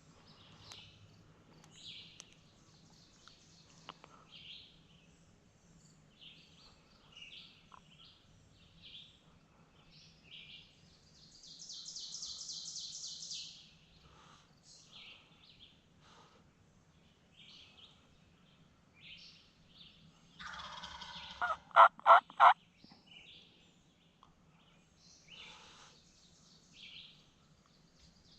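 Wild turkey gobbler gobbling once, loud and rattling, about two-thirds of the way through. Songbirds call throughout, including a high buzzy trill near the middle.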